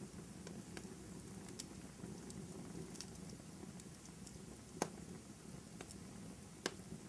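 Wood fire burning in a fireplace: a soft, steady low rumble of flames with scattered small crackles, and two sharper pops, one about five seconds in and one near the end.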